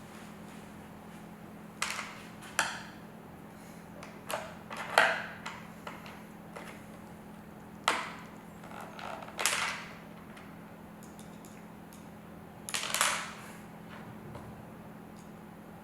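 Phillips screwdriver starting screws into a speaker grill, with short irregular clicks and scrapes of metal and plastic, some louder knocks among them. A steady low hum runs underneath.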